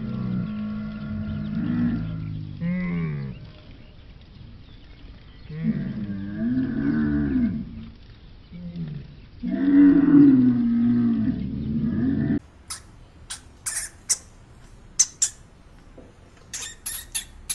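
Cattle mooing: several long, low calls that rise and fall in pitch. About twelve seconds in the mooing cuts off suddenly and a series of short, sharp high-pitched squeaks follows.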